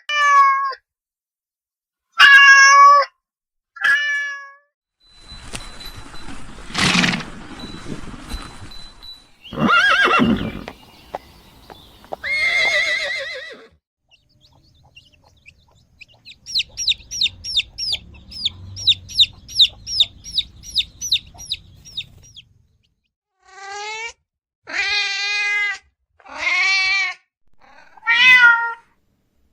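A succession of different animal calls. Short pitched cries come first, then a stretch of noisier calls. A rapid run of about three high, short calls a second follows in the middle, and more pitched cries close it.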